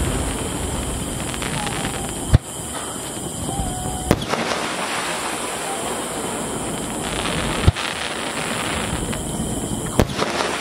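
Aerial firework shells bursting: four loud bangs a few seconds apart over a steady crackling hiss of burning stars.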